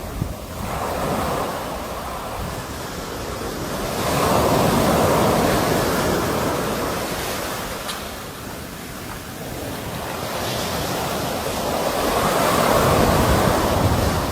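Sea waves breaking and washing ashore in slow swells, building louder about four seconds in and again near the end.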